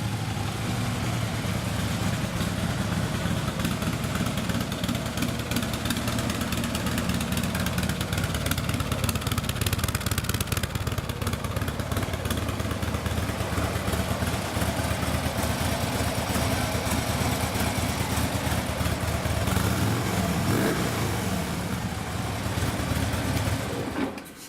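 2014 Harley-Davidson Ultra Limited's fuel-injected 103-inch Twin Cam V-twin running steadily at idle, with a brief rev about twenty seconds in.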